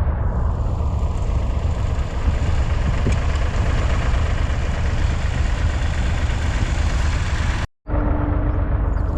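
David Brown 780's 2.7-litre three-cylinder diesel engine running steadily. It breaks off sharply for a split second near the end, then carries on with a steady hum added.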